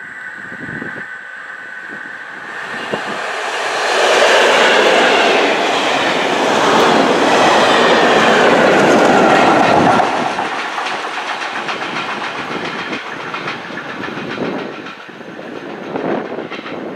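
Class 73 electro-diesel locomotives and a test train passing at speed: wheels and running gear on the rails build to a loud rush about four seconds in and drop away sharply about ten seconds in. As the train recedes there is a rapid, regular clicking from the wheels, which the uploader takes for a wheel flat on one of the 73s.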